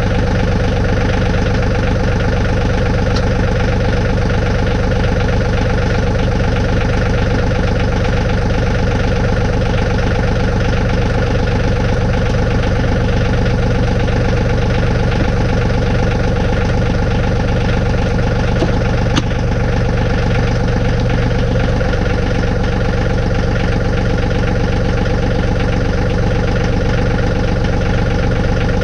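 John Deere 2032R compact tractor's three-cylinder diesel engine running steadily, with one brief sharp click about nineteen seconds in.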